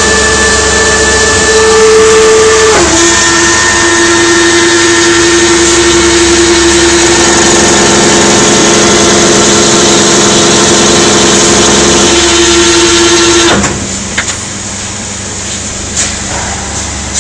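CNC lathe running under power: a loud hissing machine noise with a steady whine that steps down in pitch about three seconds in. It stops abruptly about three-quarters of the way through, leaving a quieter hum with a few light clicks.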